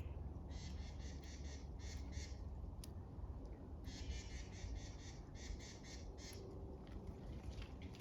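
A bird calling in two runs of quick, harsh, repeated notes: one about half a second in, the other about four seconds in, over a steady low rumble.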